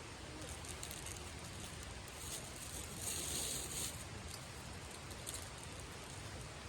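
Campfire crackling and hissing, with a louder hiss lasting about a second and a half, starting a little over two seconds in.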